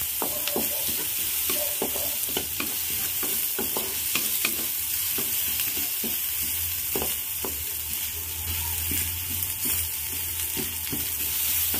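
Beef with garlic and onion sizzling in a wok, a steady frying hiss, as it is stirred, the utensil scraping and tapping the pan in frequent short clicks.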